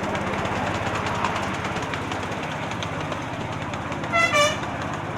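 Miniature railway train running along with a steady rumble, and about four seconds in its horn gives a short two-tone toot, a higher note then a lower one.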